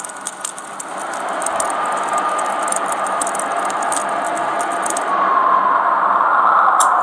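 Crackling and popping over a hiss, like a fire burning in a fireplace, with a sustained tone that swells louder about five seconds in.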